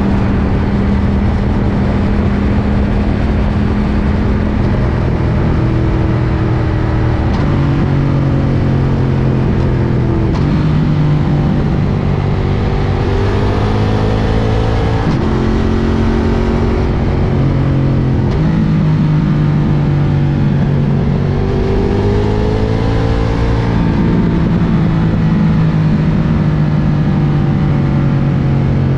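Ducati Diavel's L-twin engine running under way. Its pitch climbs and drops several times as the throttle opens and closes and the gears change.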